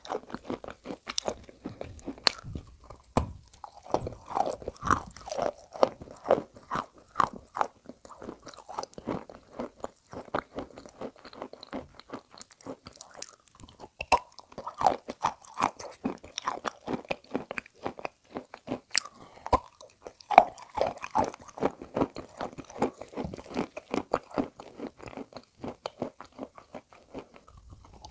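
Close-miked biting and chewing of edible chalk dipped in wet clay paste: irregular crunches mixed with sticky, wet mouth clicks, without pause.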